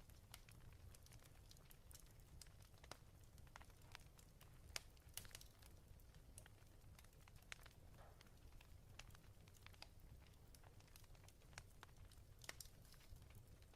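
Faint crackling of a log fire: scattered, irregular pops and snaps over a low steady rumble.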